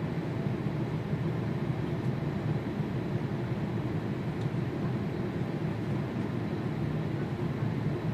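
Jet airliner engines running with a steady low rumble, the sound holding even without rising or falling.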